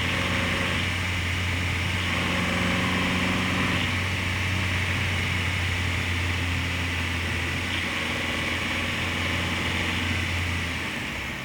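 Nissan Qashqai's 2.0 MR20DE petrol engine running steadily, with a chattering that the owner asks may be engine knock. The low engine hum drops away near the end.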